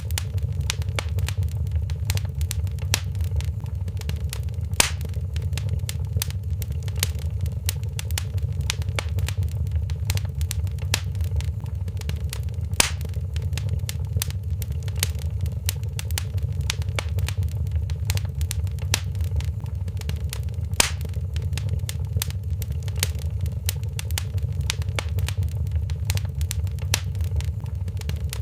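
Wood fire crackling in a fireplace: a dense, steady crackle of small snaps over a low rumble of flame, with three louder pops spaced evenly apart.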